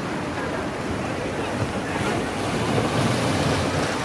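Sea waves washing in on the shore: a steady rush of surf that swells a little past the middle.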